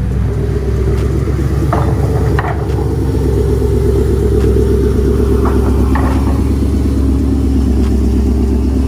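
Car engine idling steadily through a freshly welded-in aftermarket exhaust, a low, even rumble, with a few brief sharp ticks over it.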